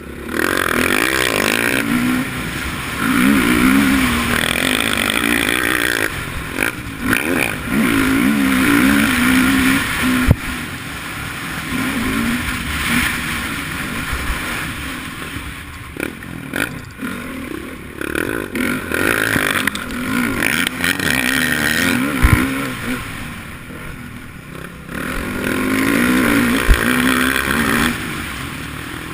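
Motocross dirt bike engine revving up and falling off again and again as it is ridden around the track, with a few sharp knocks.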